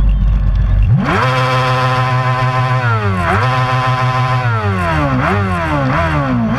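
Racing superbike engine at high revs. It climbs sharply about a second in and holds near full throttle with one brief dip at a gear shift, then falls through a series of downshifts, each a quick jump in revs, as the bike brakes.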